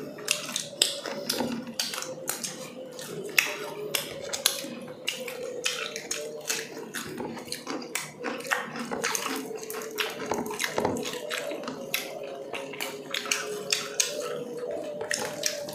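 Close-miked mukbang eating sounds: chewing, lip-smacking and many sharp wet mouth clicks as two people eat grilled chicken inasal with their hands.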